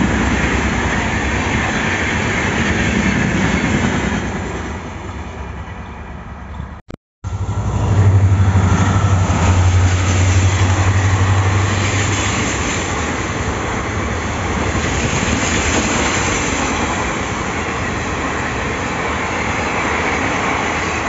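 Passenger coaches rattling past on the rails and fading away, then after a short break an Indian Railways WDP4D diesel locomotive passes close, its two-stroke V16 engine giving a strong low hum for a few seconds. Its coaches follow, clattering steadily over the track.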